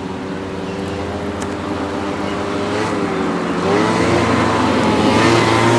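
An engine running, with a steady hum whose pitch dips and swings about in the middle and then grows louder toward the end.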